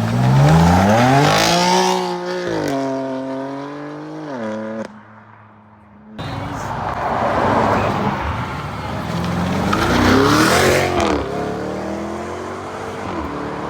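Modified cars' engines accelerating hard as they drive off, the exhaust note rising steeply in pitch, holding, then dropping away. After a short quieter gap about five seconds in, another car goes by with a second rise and fall in engine pitch around ten seconds in.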